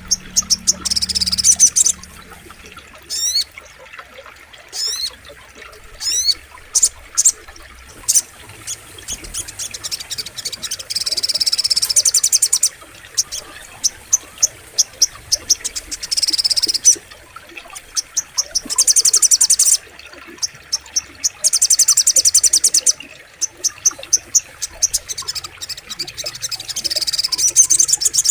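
A sogok ontong (brown-throated sunbird) singing: rapid, high, buzzy trills and chirps in repeated bursts of a second or two, with a few quick sweeping notes a few seconds in.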